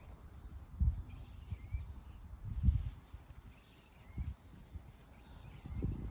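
Four dull, irregular low thuds, with faint high chirps of birds in the background.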